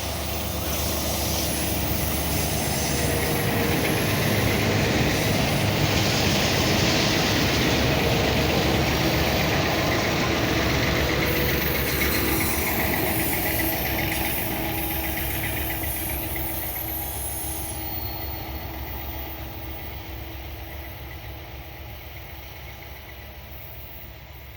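Loaded grain freight train rolling past on its descent of a mountain grade, steel wheels running on the rails. It is loud through the first half and fades steadily in the last several seconds as it moves away.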